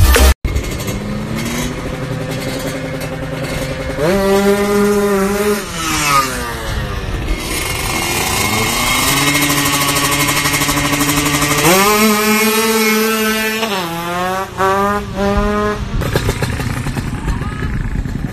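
Drag-racing motorcycle engines at the start line, revved up and held at high revs, then dropping back. The pitch sweeps down once about 6 s in. It jumps up and holds again near 12 s, then is blipped several times around 14 to 16 s.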